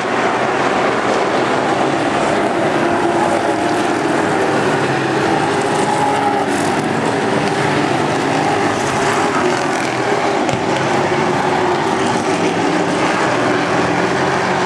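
NASCAR race trucks' V8 engines running at speed around the track, a steady, loud, continuous noise with no break.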